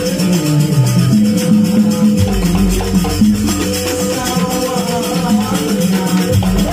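Jaranan music: an ensemble playing a melodic line over busy, fast rattling percussion.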